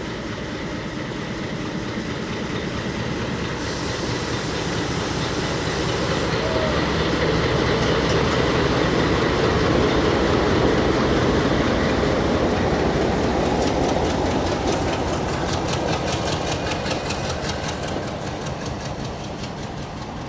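Diesel-hauled passenger train rolling past, its wheels clacking over the rail joints. The rumble builds to a peak about halfway through and fades again.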